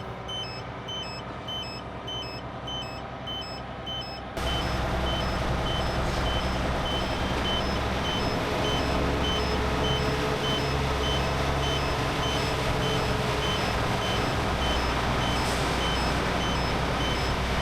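A vehicle reversing alarm beeps steadily, about two beeps a second, over the steady rumble of a heavy truck's diesel engine. About four seconds in, the engine rumble suddenly becomes louder and stays louder.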